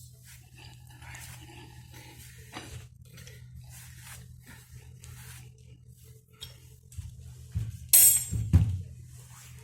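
Metal tools and steering gearbox parts clinking and knocking during disassembly, with a loud sharp metallic clank about eight seconds in and a second hit just after, over a steady low hum.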